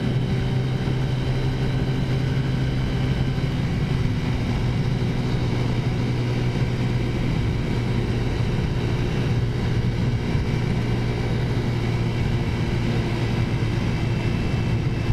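Big-bore Taotao 50cc four-stroke scooter engine running at a steady cruising speed, a constant drone, with wind noise on the microphone.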